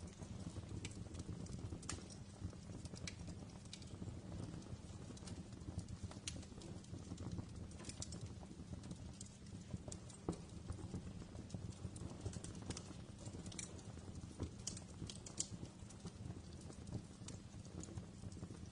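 Wood fire crackling: irregular sharp snaps and pops over a low, steady rumble of burning.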